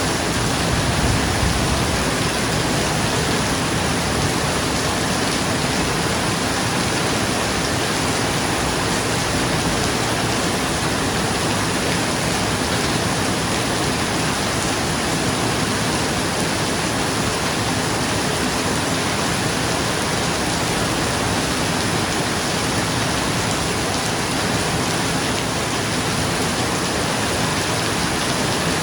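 Steady rain falling on a roof: an even, unbroken hiss of many drops, with no thunder standing out.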